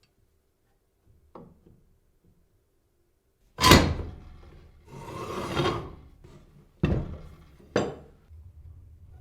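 Workshop handling sounds from a heavy cast-iron bench vise: a faint knock, a loud thunk a few seconds in, a sliding scrape that swells and fades, then two sharp knocks.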